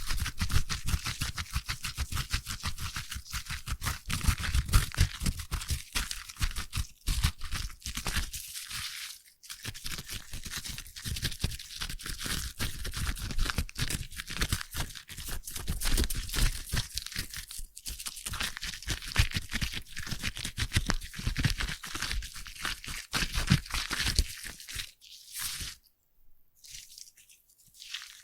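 Foam crackling and fizzing close to the microphone, a dense run of tiny pops with soft low thumps as it is worked. It thins out and stops near the end.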